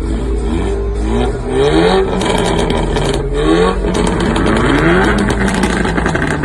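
Car engine accelerating hard through several gears, its pitch climbing and then dropping back at each upshift, with rapid crackles and pops from the exhaust.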